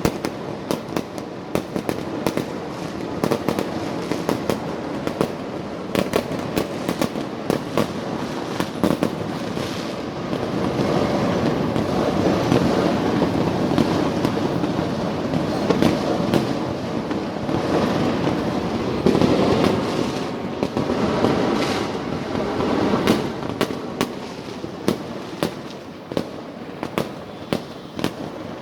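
Street fireworks going off in rapid succession: a continuous crackle of bangs that thickens into a near-unbroken roar through the middle, then thins to separate sharp bangs near the end.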